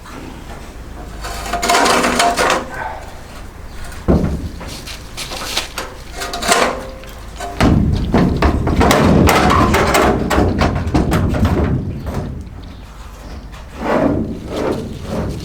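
Steel combine straw walker parts knocking, clanking and scraping as they are handled and fitted together, with several sharp impacts and brief metallic ringing.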